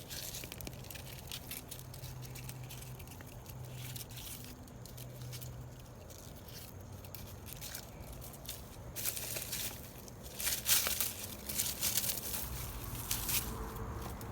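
Rustling and crunching of soil and dried plant matter being dug through by hand, in irregular crackly bursts that grow busier about nine seconds in.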